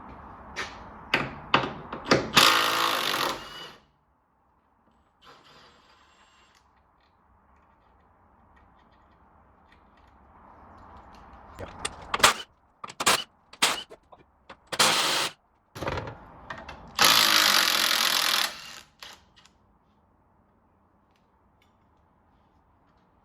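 Impact wrench undoing the differential mounting bolts: a burst of over a second, several short blips, then a burst of about two seconds near the end. Metal knocks come between the bursts.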